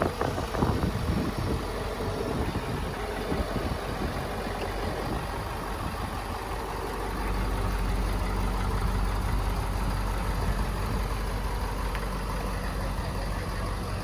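Ford 6.7L Power Stroke V8 diesel engine of a 2021 F-350 Super Duty idling steadily, with a few irregular knocks in the first two seconds.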